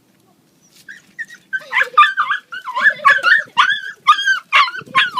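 Dog whining and yipping in a rapid string of short calls that bend up and down in pitch, starting about a second in: a dog protesting at being made to walk on a lead.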